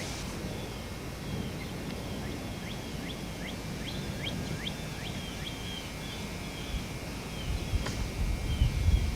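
Birds chirping over a low, steady wind rumble. There is a burst of quick rising chirps in the middle and repeated short falling notes throughout, with one sharp click near the end.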